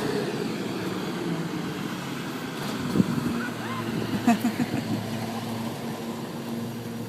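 Garbage truck's engine running steadily, slowly fading as it moves off, with a sharp click about three seconds in and a few short voice-like sounds just after.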